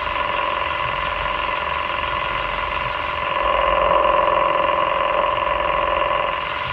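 Excavator engine and hydraulics running with a steady droning tone, growing louder about halfway through as the machine works.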